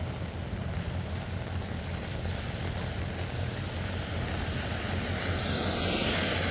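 Steady rain and a low rumble of city traffic. A car's tyres hiss on the wet road, swelling louder over the last second or so.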